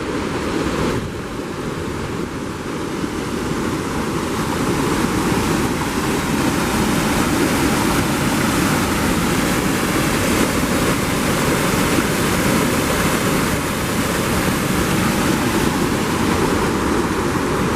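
Waterfall: a steady, loud rush of falling water, growing louder over the first few seconds and then holding steady.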